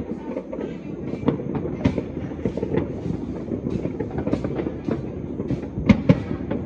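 Many distant fireworks and firecrackers going off at once, making a dense, continuous crackling rumble with scattered sharper bangs. Two louder bangs come close together near the end.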